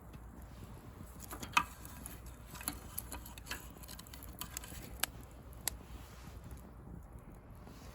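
Bonfire of dry pruned rose branches crackling, with irregular sharp pops over a low steady rumble of the flames; the loudest pop comes about a second and a half in.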